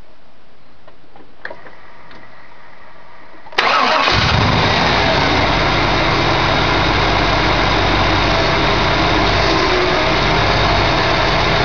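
The rebuilt engine of a 1998 Chevrolet Silverado K1500 starts about three and a half seconds in, after a few faint clicks, and settles into a steady idle.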